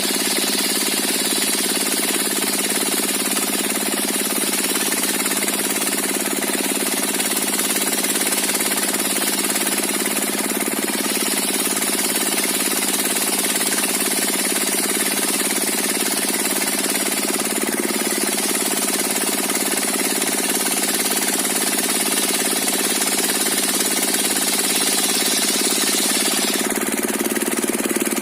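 Diesel engine driving a circular sawmill, running steadily without a break.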